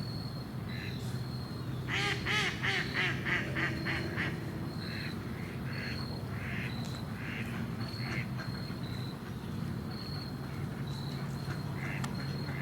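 Ducks quacking: a quick run of about eight quacks about two seconds in, then single quacks every second or so.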